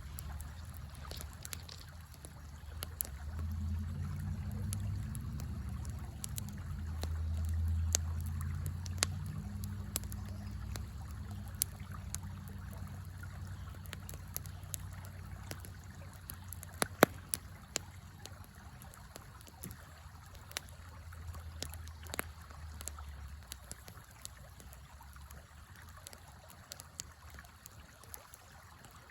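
Small campfire crackling with scattered sharp pops, one louder pop about 17 seconds in, over the steady rush of a flowing river. A low rumble swells and fades underneath, strongest in the first half.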